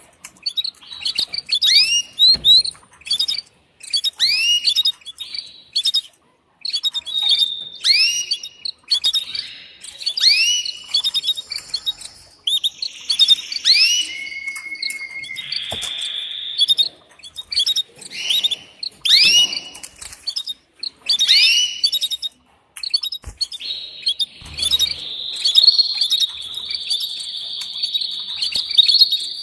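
Canary calling: a run of short chirp notes that rise and fall, about two a second, broken by longer steady trills around the middle and from about three quarters of the way through.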